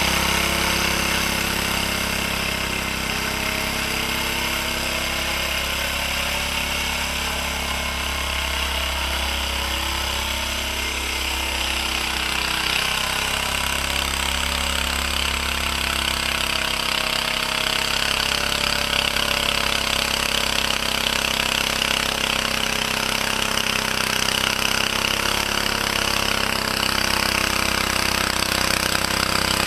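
Small engine of a 1949 Bready walk-behind tractor running steadily with a rapid, jackhammer-like firing chatter while plowing heavy wet snow.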